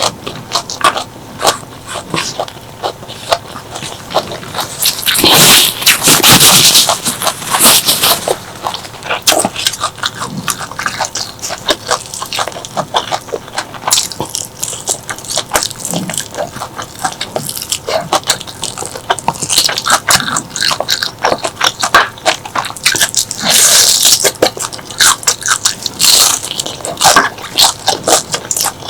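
Close-miked eating: chewing with many sharp, wet mouth clicks and crunching, and two louder stretches of crunchy biting, one about five seconds in and another a little before the end.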